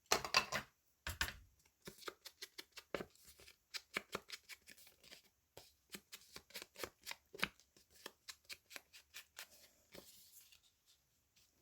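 Paper being trimmed with scissors: a run of quick, crisp snips, several a second, with paper rustling. The rustle is loudest in the first half-second.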